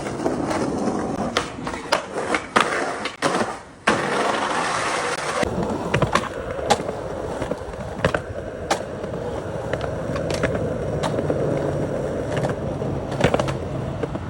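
Skateboard rolling on hard pavement with a steady rumble of the wheels, and short sharp clicks about once a second. Several sharp board clacks come in the first few seconds.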